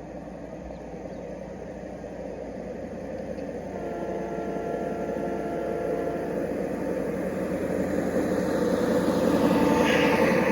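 G scale model train running along the track, its motor and wheels making a steady rumble that grows steadily louder.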